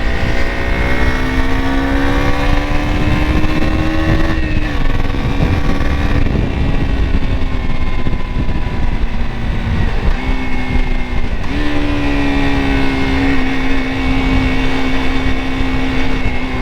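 KTM RC 200's single-cylinder engine pulling under way, its pitch climbing and then dropping at gear changes about four and eleven seconds in, over heavy wind rumble on the microphone.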